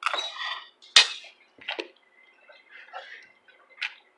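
Spoons and cutlery clinking and scraping against dishes while eating: a few scattered short clicks, the sharpest about a second in.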